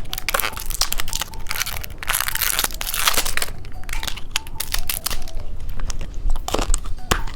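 Plastic candy wrapper crinkling and tearing as a packaged sweet is unwrapped, a dense run of sharp crackles.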